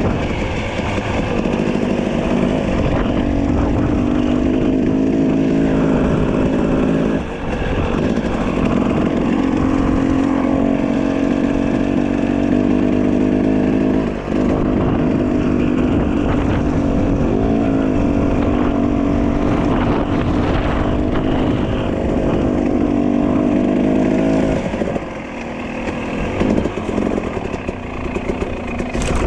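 Dirt bike engine running under steady throttle. The sound dips briefly twice, about seven and fourteen seconds in, then falls back and turns uneven near the end as the throttle eases.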